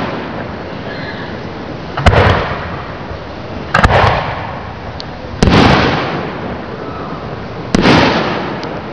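Aerial firework shells bursting overhead: four loud bangs spaced about one and a half to two and a half seconds apart, each dying away over about a second.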